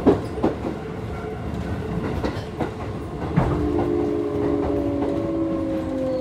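Keisei 3600 series train's Toyo GTO-VVVF inverter heard from inside the car, with wheels clacking over rail joints; a little past halfway the inverter whine comes in as several stacked tones that slowly fall in pitch as the train slows on its approach to the station.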